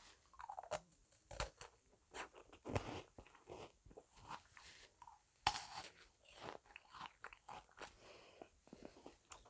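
Crisp meringue cookies crunching and crackling as they are bitten and chewed, in irregular small cracks with one louder crunch about halfway through.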